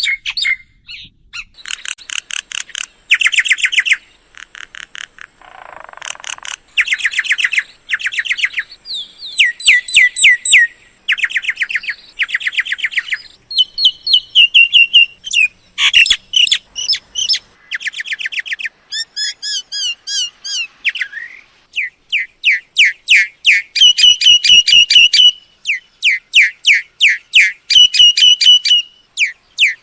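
Myna calling: rapid runs of repeated chirps and whistled notes in bursts of a second or two, the phrase changing from burst to burst.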